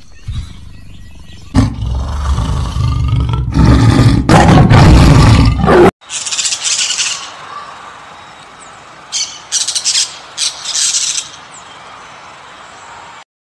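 A loud, deep animal sound for the first six seconds that cuts off abruptly, then birds chirping in short clusters of high calls.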